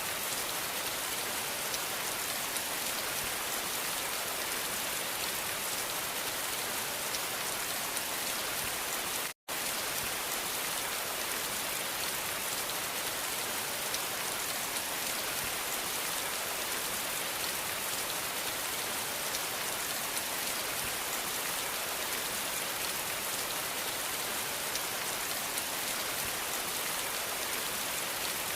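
Steady, dense rainfall, an even hiss of many drops. It cuts out completely for an instant about nine seconds in, then resumes unchanged.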